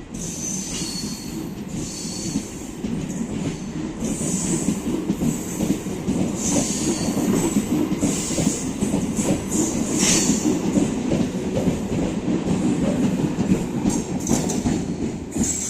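MEMU electric multiple-unit train's coaches rolling out of the station, wheels clattering over rail joints in a dense rumble that grows louder over the first several seconds, with high-pitched wheel squeals coming and going.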